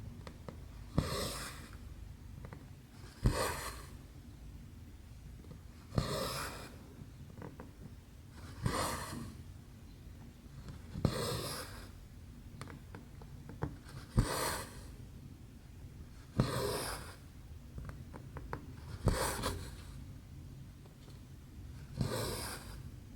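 Needle stitching cross-stitch fabric: a short swishing pull of thread about every two and a half seconds, each starting with a sharp tick as the needle goes through.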